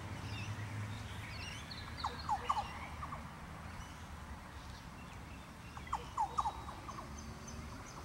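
Bird calls: a quick run of four or five short, sharply sliding notes, given twice about four seconds apart. Fainter high chirps of small birds and a low steady background rumble lie underneath.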